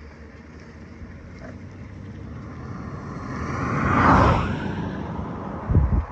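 A road vehicle passing by, its engine and tyre noise swelling to a peak about four seconds in and then fading away. A short low thump near the end.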